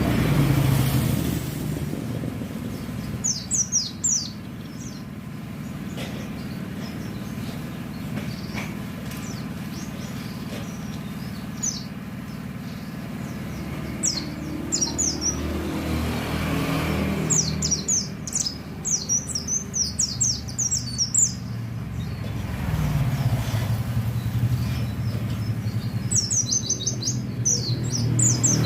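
White-eye (pleci) singing in several bursts of quick, high chirping notes, the longest about three seconds, over the rumble of road traffic that swells as vehicles pass.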